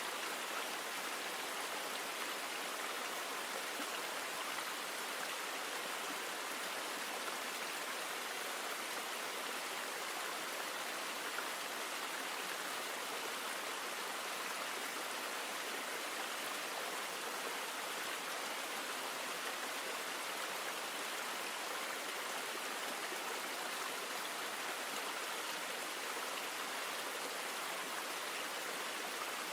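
A river flowing, a steady, even sound of running water that does not change.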